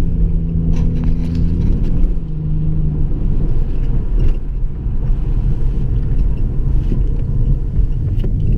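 2011 Dodge Charger's 3.6-litre V6 running through a straight-pipe exhaust while driving, a loud, steady low rumble. For the first three seconds a steady droning tone rides over it, the exhaust drone that comes with a straight pipe.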